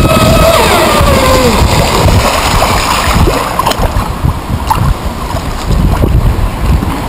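Radio-controlled model boat motor whining at high revs, its pitch falling away over the first second and a half as it slows or runs off, followed by low rumbling wind noise on the microphone with some splashing.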